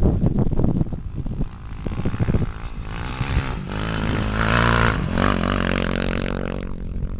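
Off-road racing engine running hard, climbing in revs from about two and a half seconds in, loudest around four to five seconds, then dropping away near the end. Before it, rough wind and bumping noise.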